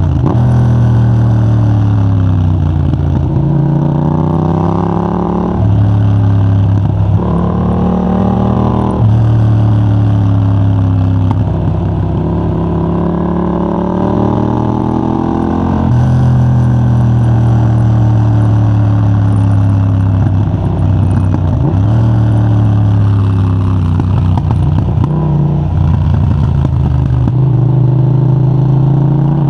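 Yamaha MT-07's 689 cc parallel-twin engine through a de-catted Mivv GP Pro titanium exhaust with a 35 mm dB killer, accelerating hard in repeated rising sweeps of pitch, each cut short by a gear change or closing the throttle. About halfway through the pitch drops and the engine runs down on the overrun before pulling up again twice near the end.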